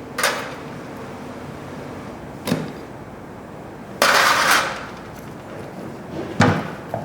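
A few sharp knocks and clatters a couple of seconds apart, with a longer, louder rattling clatter about four seconds in.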